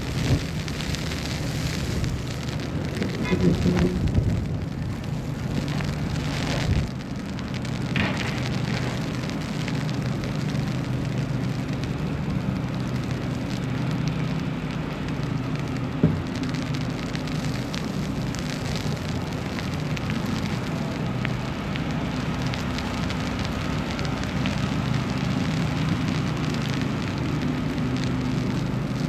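City street ambience in a snowstorm: a steady low hum of traffic and building machinery under a continuous crackling patter, with a few louder knocks.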